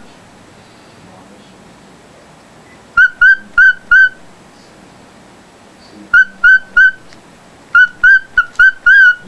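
Pet bird giving loud, short whistled calls in quick series: four notes about three seconds in, three about six seconds in, and five near the end, each note a clear whistle that rises and dips.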